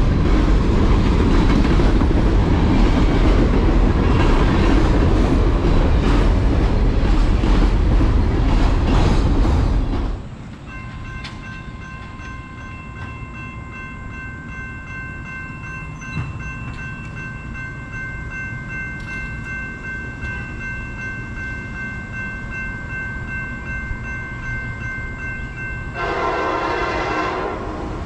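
A train rolling past close by, with a heavy rumble and clattering wheels, cuts off abruptly about ten seconds in. A quieter stretch follows with a steady chord of high tones. Near the end a locomotive horn sounds one short loud blast.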